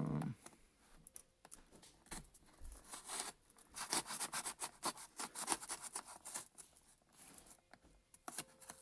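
Spyderco Sage 2 folding knife slicing open a package: a run of irregular short scraping and cutting strokes through tape and packaging.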